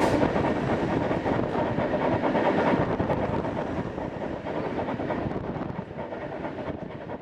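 ER2K electric train running on the rails, wheels clattering over the rail joints, with the noise dying away steadily.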